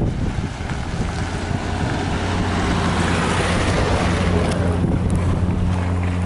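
Piper PA-28 Cherokee's piston engine and propeller at takeoff power: a steady low drone with a rushing noise that swells around the middle and then eases, with wind buffeting the microphone.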